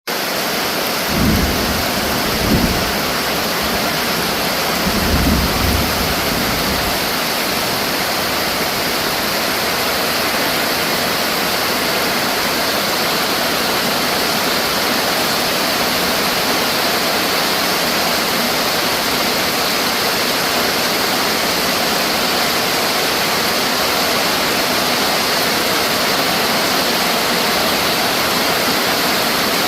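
Heavy rain falling steadily, a dense even hiss, with a few short low rumbles in the first six seconds.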